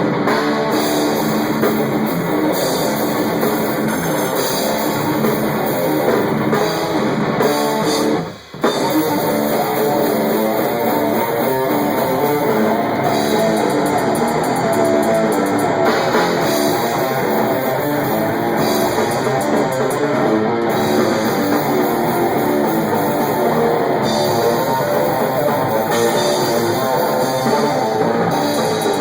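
Rock band playing a song in rehearsal: electric guitar over a drum kit, loud and raw as picked up by a phone camera at the drums. The sound drops out for about half a second some eight and a half seconds in.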